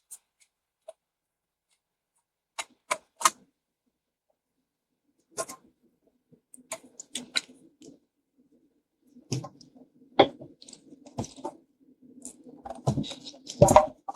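Scattered sharp clicks and taps of hand tools and plastic parts as an air-conditioner PCB housing is worked open: a few isolated clicks early, then quicker clusters of taps and rattles toward the end.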